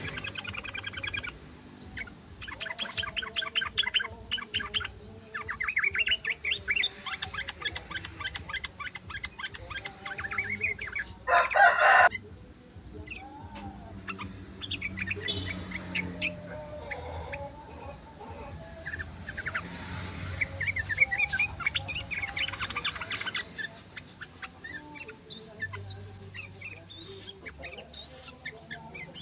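Yellow-vented bulbuls (trucukan) chattering in repeated bouts of fast rattling trills, with a short loud harsh call a little after eleven seconds in.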